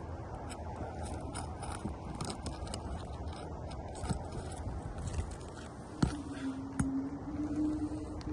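Scraping and scattered clicks over a low rumble, with two sharper knocks and a steady low hum starting about six seconds in.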